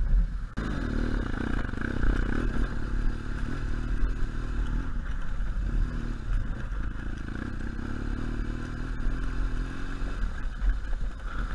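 BMW R1200GS Adventure's boxer-twin engine running at low, fairly steady revs with small rises and falls in pitch as the bike is ridden slowly over rough, stony grass. The sound drops out briefly about half a second in.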